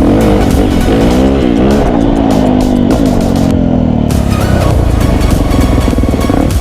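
Off-road vehicle engine revving, its pitch rising and falling, with music playing over it.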